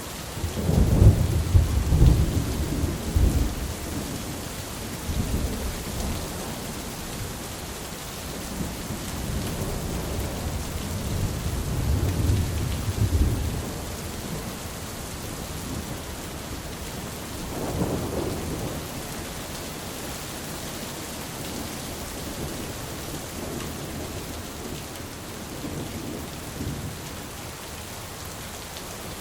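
Steady rain falling, with rolls of thunder rumbling over it. The loudest roll comes about a second in and lasts a few seconds. A second roll builds and peaks around the middle, and a shorter one follows past the halfway point.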